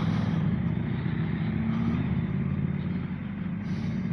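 Motorcycle engine running at a steady cruise while riding, with wind and road noise, heard through the rider's helmet microphone.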